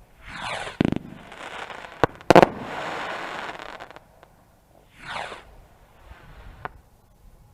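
Fireworks going off: a whistle falling steeply in pitch and a sharp bang, then a louder bang followed by a second and a half of dense crackling. Another falling whistle and a sharper bang come near the end.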